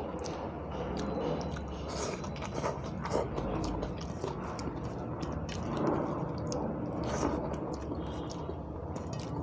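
A person chewing mouthfuls of rice and dal, with many small wet mouth clicks, while fingers mix the rice on a steel plate.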